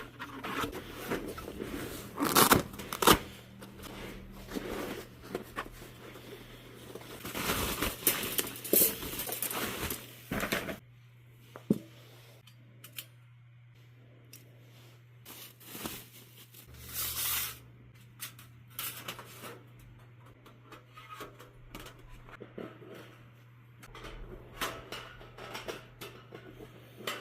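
Packaging being rustled and torn open for about ten seconds, with sharp clicks. Then come quieter, scattered handling noises and light knocks of the fire pit's parts, over a steady low hum.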